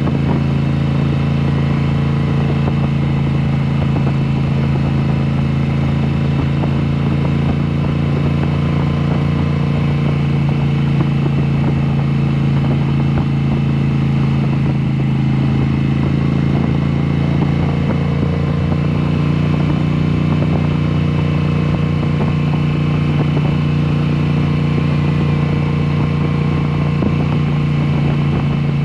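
Moto Guzzi V7 Special's air-cooled 853 cc V-twin running at a steady, nearly unchanging engine speed through Mistral exhaust mufflers with the dB killers removed, giving a loud open-pipe exhaust note.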